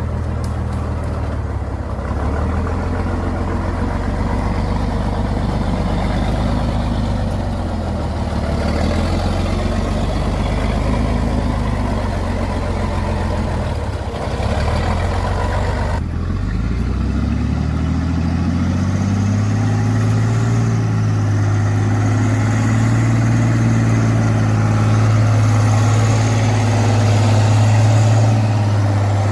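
Truck engine running under load, its pitch rising and falling; about seventeen seconds in, the revs climb and then hold higher and louder.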